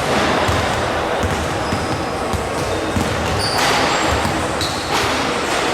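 Basketball being dribbled on a gym court amid a steady murmur of crowd noise, with brief high squeaks now and then, typical of players' shoes on the floor.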